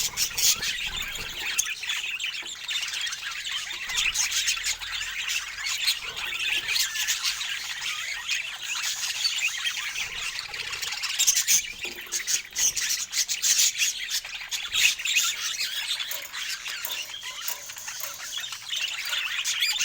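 Budgerigars chattering, a steady stream of warbling chirps and squawks.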